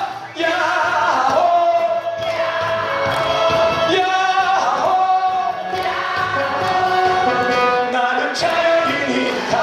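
A group of voices singing a song together over backing music, with long held notes.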